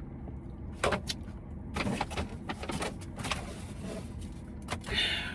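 Handling of a takeout bowl and fork: scattered clicks, scrapes and rustles of the container, with a short noisy rustle near the end, over a steady low rumble.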